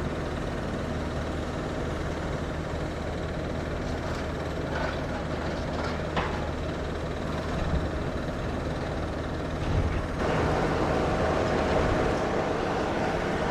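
Diesel engines of demolition machinery running steadily, with a couple of short knocks about five and six seconds in. About ten seconds in, a louder rushing, rumbling noise joins in.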